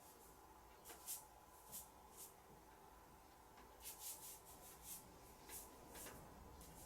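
Faint, short swishes of an ink brush dragged across paper, about ten strokes in quick clusters.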